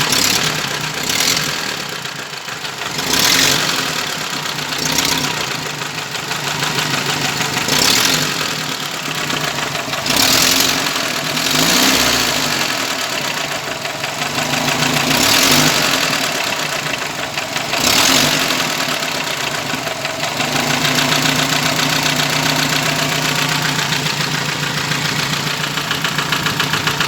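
Hot UMZ-4216 engine idling unevenly, misfiring and knocking, its level swelling and falling every couple of seconds and running steadier near the end. The knock is typical of a worn camshaft drive gear with excessive end play.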